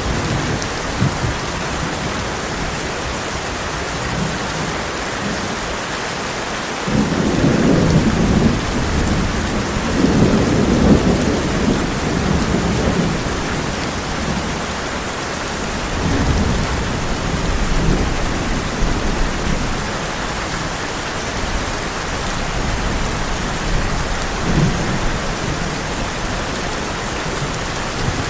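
Heavy rain on a tin roof, a steady hiss, with thunder rolling in about a quarter of the way through, rumbling for several seconds, then fainter rumbles later.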